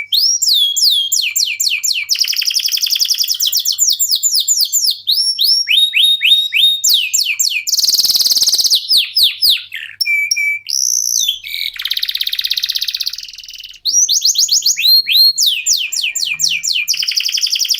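Domestic canaries singing a loud, fast song. It is made of runs of quick downward-sweeping notes and rapid trills, broken by harsh buzzy rolls about eight seconds in and again around twelve seconds.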